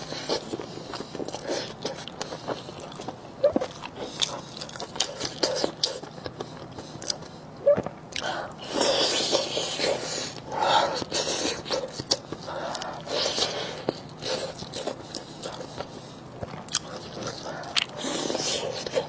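Close-miked eating: a person biting and chewing soft, sauced pork large intestine stuffed with pig brain, with wet mouth clicks and lip smacks throughout, busiest in the middle.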